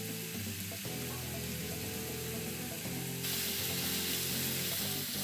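Ground beef, onions and garlic sizzling in a frying pan, the hiss growing brighter about three seconds in, under background music of held notes.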